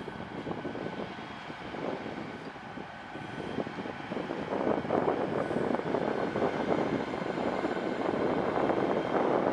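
GWR Hitachi Intercity Express Train, a bi-mode running on its underfloor diesel engines, moving along the platform: a steady engine drone with wheel noise and a faint high whine, growing louder about halfway through.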